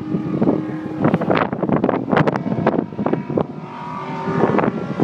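Stock-car engines running as the cars lap a circle track, rising and falling in short loud surges.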